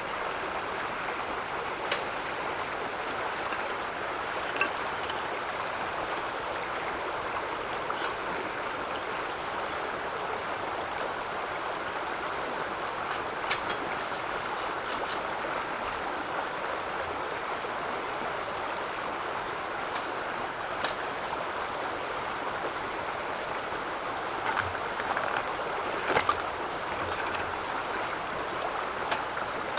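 Steady rushing of running water, with a few faint sharp clicks here and there.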